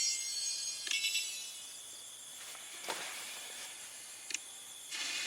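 Insects chirping over a steady high hiss. A ringing high trill fades in the first second, and a couple of single clicks follow.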